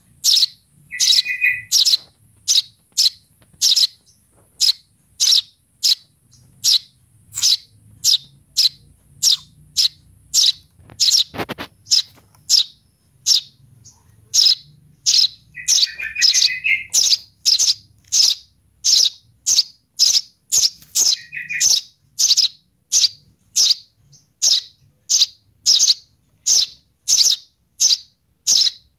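A sparrow chick calling for its parent: a sharp, high chirp repeated evenly about one and a half times a second, with a few brief lower twittering notes in between.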